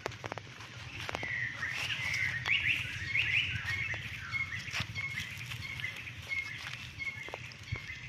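Birds chirping: a cluster of quick high chirps in the first half, then a short chirp repeated about every half second. A few light snaps and rustles of dry leaves come underfoot.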